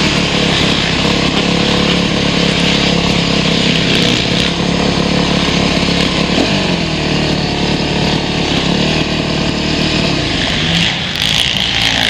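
Motocross motorcycle engine running, its pitch falling and then climbing again about halfway through as the rider rolls off and gets back on the throttle.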